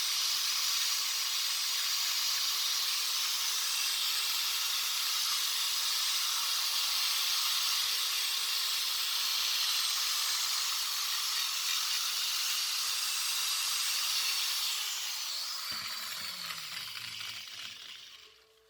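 A high-speed power tool, likely a rotary grinder working on the carburettor, runs with a steady hiss. It is switched off about three quarters of the way in and winds down, its pitch falling as it fades.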